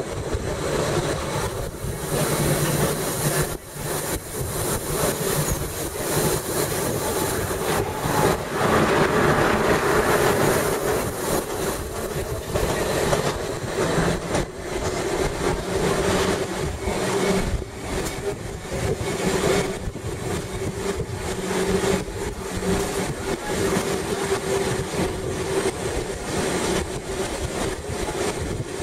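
Gornergratbahn electric rack-railway train heard from inside the car as it runs downhill: a steady hum from the running gear with frequent clicks and knocks from the wheels and track.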